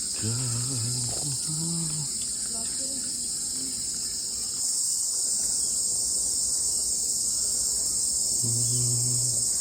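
A steady, dense, high-pitched chorus of crickets and other insects, with brief low pitched calls or voices in the first two seconds and again near the end.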